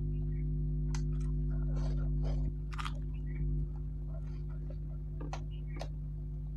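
Chewing and crunching crisp papad close to the microphone, with scattered sharp crunches and crackles, over a steady low hum.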